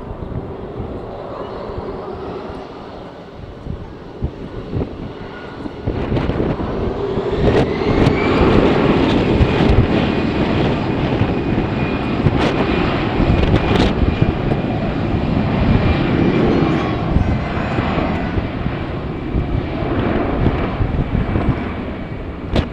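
Jet airliner engines, getting louder about six seconds in, with a whine that rises and then holds steady over a heavy rumble. Gusts of wind buffet the microphone.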